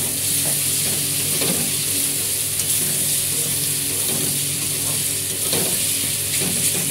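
Chopped tomatoes, onions and garlic paste sizzling steadily in hot mustard oil in a metal kadai, stirred with a metal spatula that scrapes the pan as the masala is cooked down.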